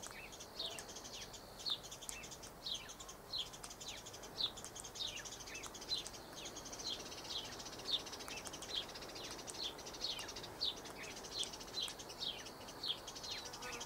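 Bird chirping: short, high, falling chirps repeated about two a second, faint and steady, over a soft high hiss.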